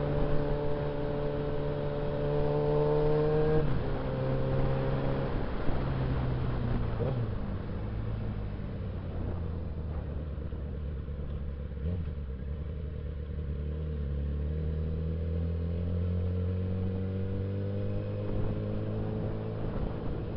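Suzuki Bandit 650S inline-four engine running under way. It holds steady revs, drops off about four seconds in and winds down to a lower steady note, then slowly climbs again toward the end.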